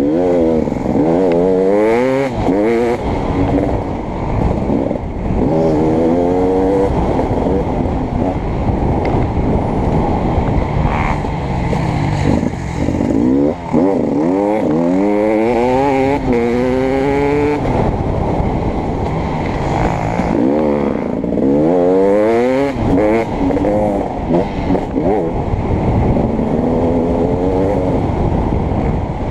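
Beta 300RX two-stroke dirt bike engine being ridden hard, revving up and down over and over. The pitch climbs steeply, then drops off on shifts and closed throttle, several times in quick succession, under a rush of wind and track noise.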